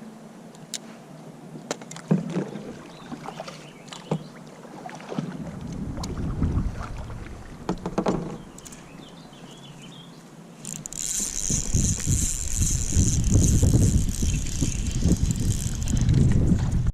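Wind buffeting the microphone in low gusts, with scattered knocks and clicks from gear being handled in a kayak. The wind grows much louder and harsher about eleven seconds in.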